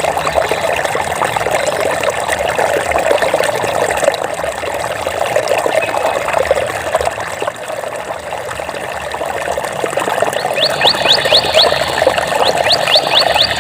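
Stream water trickling and babbling steadily over stones. Near the end, runs of quick, high, rising chirps come in twice.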